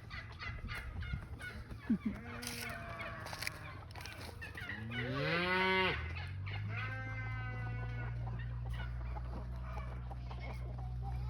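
Chickens clucking, then a cow's long moo that rises in pitch about five seconds in and is held for a few seconds. A steady low hum runs underneath from about halfway through.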